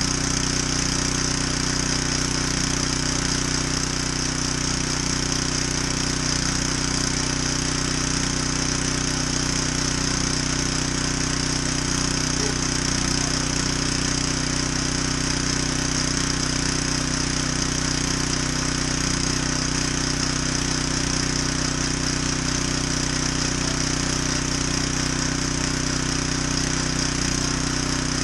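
Generac 3100 psi pressure washer's small gas engine running steadily at constant speed, with a steady high hiss above the engine note.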